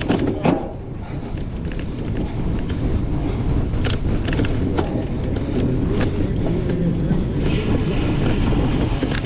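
Wind buffeting the microphone over the low rumble of a cyclocross bike rolling, with a few sharp clicks. The wind hiss gets louder and brighter about seven and a half seconds in.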